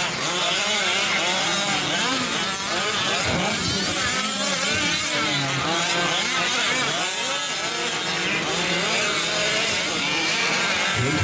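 Several 1/5-scale RC trucks' small two-stroke gas engines revving up and down at once, their overlapping pitches rising and falling as they race.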